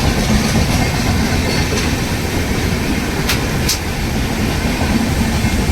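Indian Railways passenger train running on the rails: a steady rumble of coaches and wheels, with two brief sharp ticks about half a second apart a little past the middle.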